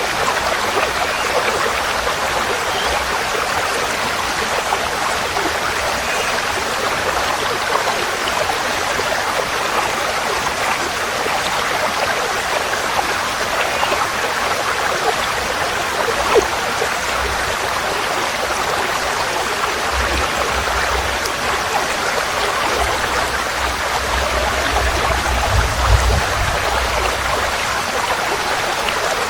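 Forest stream flowing over rocks: a steady, even rush of running water. A low rumble comes and goes in the last third.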